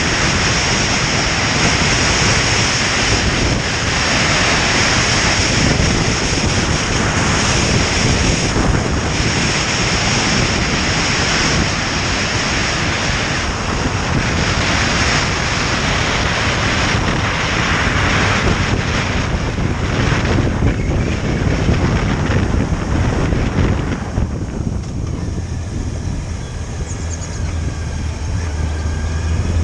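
Wind rushing over the microphone of a moving motorcycle, swelling and easing, with the motorcycle's engine running underneath. About 24 seconds in the wind noise drops and the engine's note comes through more clearly, rising in pitch near the end.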